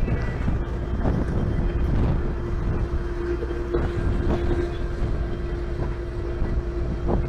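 Engine of the Desert Princess stern-wheel paddle boat running as it gets underway: a steady low rumble with a steady hum over it.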